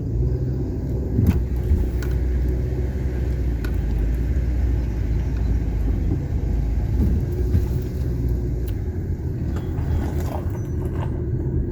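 Car driving slowly, heard from inside the cabin: a steady low rumble of engine and tyres, with a couple of light knocks.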